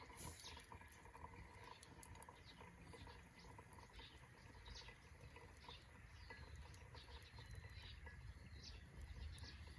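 Faint bird calls: a scatter of short chirps and whistled notes, over a low steady rumble.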